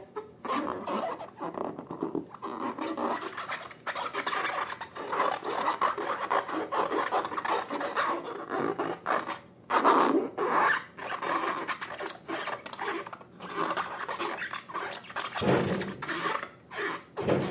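Slime being worked by hand: continuous irregular sticky rubbing and crackling, louder about ten seconds in and again near the end.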